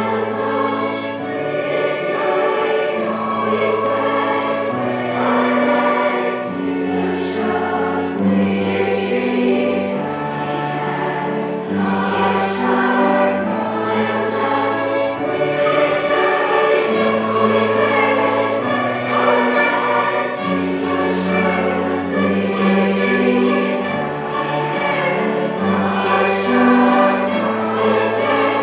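A choir singing in held, slowly changing chords with sung words, the sibilants clearly heard.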